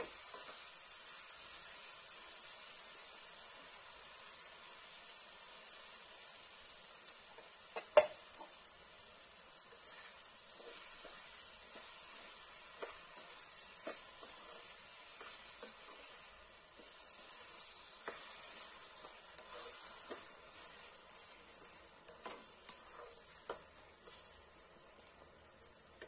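Sugar-coated mango pieces sizzling in a black wok as the sugar melts into syrup, stirred with a wooden spatula that scrapes and knocks against the pan. A sharp knock stands out about eight seconds in.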